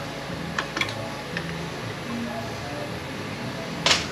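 Metal transmission parts and hand tools clinking on a workbench during teardown. A few light ticks come in the first second and a half, then one sharp, loud clank near the end.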